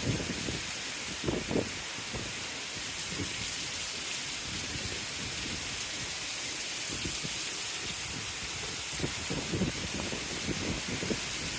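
Heavy rain pouring down in a steady hiss, with a few short low buffets about a second and a half in and again in the last few seconds.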